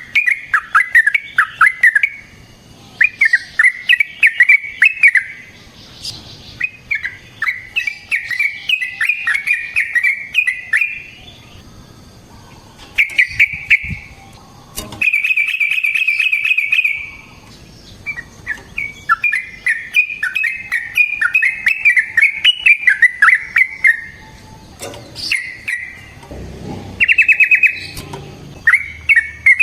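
Yellow-vented bulbul (trucukan) singing: repeated bursts of fast, bubbly chattering notes, each phrase a couple of seconds long with short pauses between. About halfway through comes an even, rapid trill, and a short one follows near the end.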